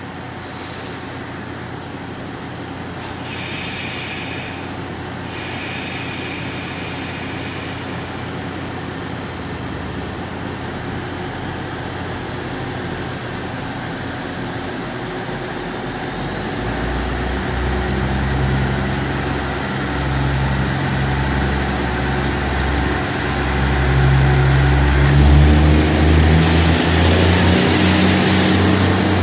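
DR3000 diesel multiple unit pulling away from a station: a short hiss of air a few seconds in, then from about halfway the diesel engines rev up and grow louder, with a rising whine that climbs again near the end.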